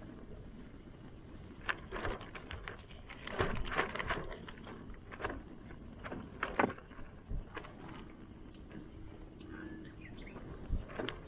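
Irregular clicks, knocks and light clatter in scattered clusters, loudest around a third of the way in and again just past the middle.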